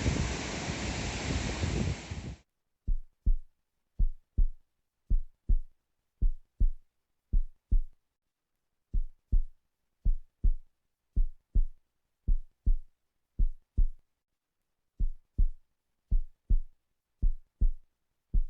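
Wind and surf on the microphone for about two seconds, then cut off. It is followed by a heartbeat sound effect: low double thuds (lub-dub) about once a second, with dead silence between them and two brief pauses along the way.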